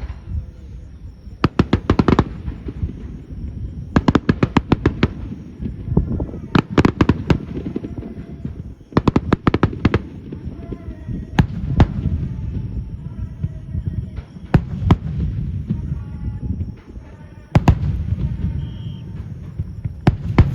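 Aerial fireworks going off: several rapid runs of crackling bursts, a few single sharp bangs, and a low rumble of echoing booms between them.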